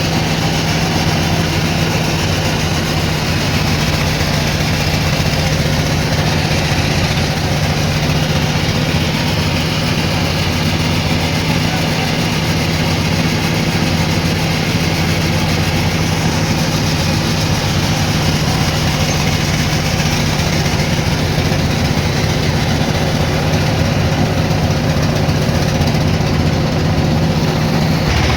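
Sawmill machinery running steadily: a constant loud mechanical drone with a low hum.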